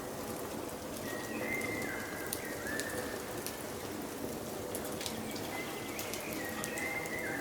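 Wood fire crackling and popping with a steady hiss, while a bird sings short whistled phrases in the background about a second in and again near the end.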